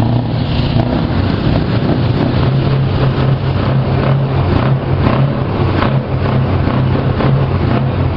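Scania V8 diesel truck engine running steadily with a deep, even note.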